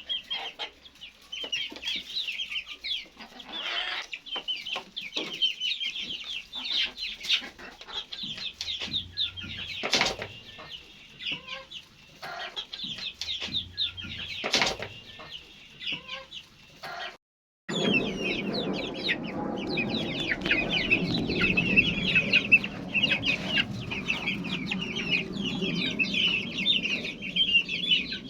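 A flock of domestic chickens calling, many short overlapping calls without pause. About two-thirds of the way through there is an abrupt break, after which the calls go on louder over a low rumble.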